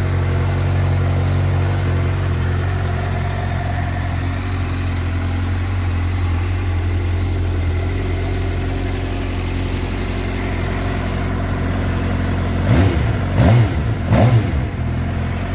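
2010 Suzuki GSX-R600's inline-four engine idling steadily, then three quick blips of the throttle near the end, each rising and dropping straight back to idle.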